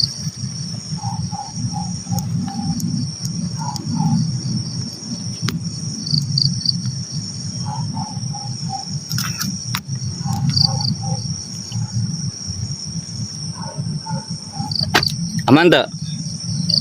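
Night insect chorus: crickets trilling steadily at a high pitch, with a short run of four or five lower notes from another calling animal repeating every few seconds.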